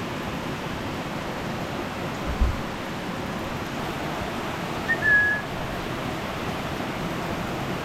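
Steady rush of heavy rain and a swollen stream, with a dull low thump a little over two seconds in and a short high whistle, the loudest sound, about five seconds in.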